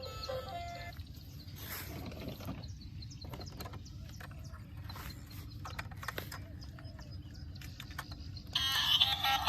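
Scattered light clicks and knocks over a low steady rumble, between stretches of music: a short bit fading out about a second in, and loud music starting again near the end.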